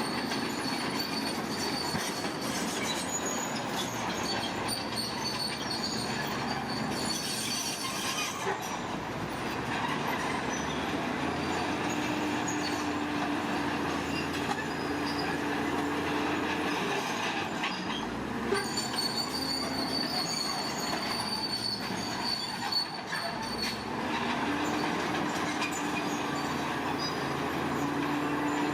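Bulldozer working, its diesel engine running under a dense clatter, with a high metallic squeal from the steel crawler tracks that comes and goes.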